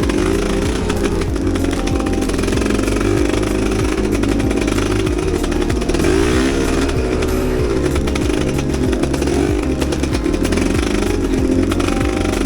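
Enduro dirt bike engine running and revving up and down as it is ridden, with background music underneath.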